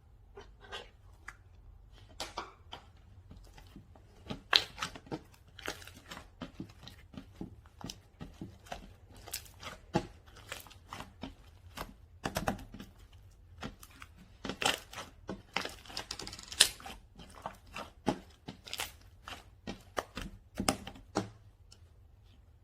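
Slime being played with by hand, giving irregular sticky clicks, crackles and pops, with a few louder pops.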